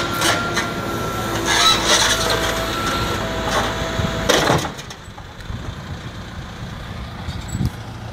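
Backhoe loader at work: engine running with a steady mechanical whine and several sharp metallic clanks. About four and a half seconds in, the sound drops to a much quieter rumble.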